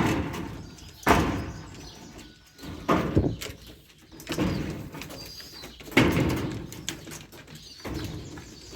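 Pigeons flapping their wings in a run of sudden, noisy flurries, about six of them a second or two apart.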